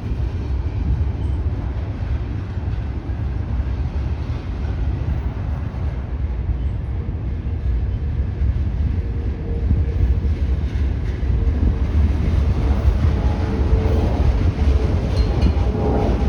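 A train rolling past, a continuous heavy low rumble. In the second half a faint steady whine, typical of wheel squeal, rises above it.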